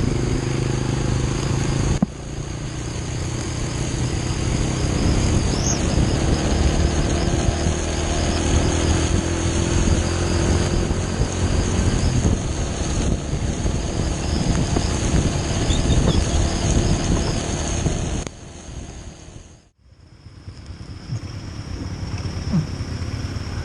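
Motorcycle engine running while riding, mixed with a steady rush of road and wind noise. Near the end the sound drops off sharply, almost to silence for a moment, then builds back up.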